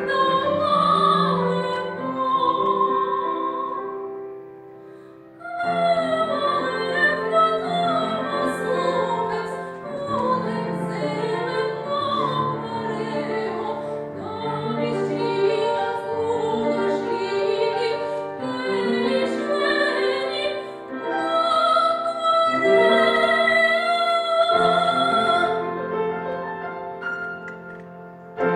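Female operatic voice singing a romance with vibrato over piano accompaniment. The music thins out about four seconds in, then the voice comes back in, with long held high notes near the end.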